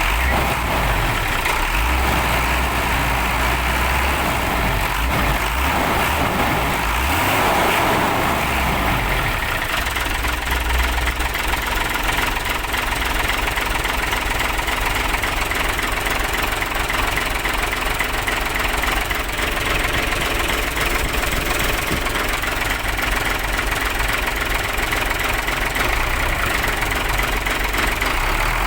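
Hino 500 New Generation truck's diesel engine idling steadily during engine tuning; its low rumble eases slightly about ten seconds in.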